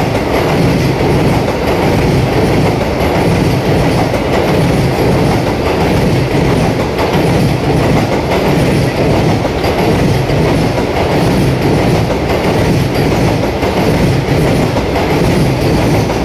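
Vande Bharat Express electric multiple-unit train running past alongside a platform: a steady loud rumble of the coaches with a rhythmic clickety-clack of wheels on the rails.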